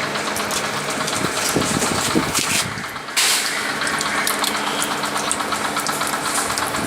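Steady machinery noise from a running diesel-fired coil-type steam boiler unit. The sound dips briefly about three seconds in and comes back abruptly.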